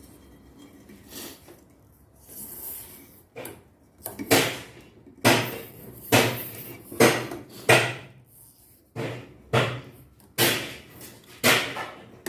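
A series of sharp knocks and clunks on the washing machine, a few soft ones at first, then about ten loud ones from about four seconds in, roughly one or two a second, while the drive belt is being fitted at the back of the Samsung front-loader.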